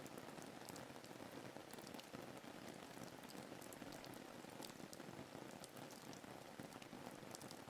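Faint, steady rain ambience: an even hiss of rainfall with scattered small drop ticks.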